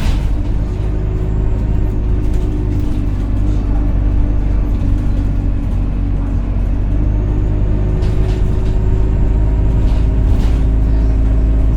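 Alexander Dennis Enviro200 single-deck bus's engine running steadily under way, heard from inside: a heavy low rumble with a steady whine on top that fades and comes back. The bus is nicknamed a "loud Hoover" for this whine.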